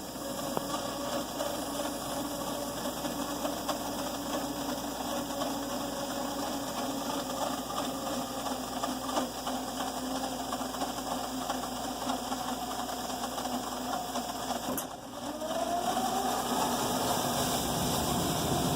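Household furnace running: a steady mechanical hum with a fast rattling buzz. About fifteen seconds in, the sound drops briefly, then a tone rises in pitch.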